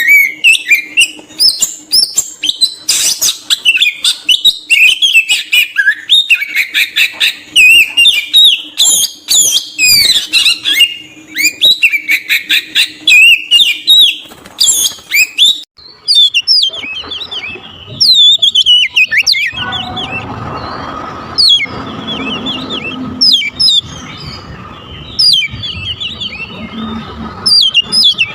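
Oriental magpie-robin (kacer) singing: a dense, rapid run of varied whistles and chirps. About halfway through, the song thins to sparser, separate calls over a steady background hiss and hum.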